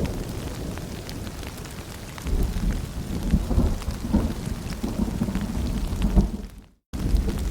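Rain falling with a low rumble of thunder that swells about two seconds in. The sound cuts out to silence for a moment near the end, then resumes.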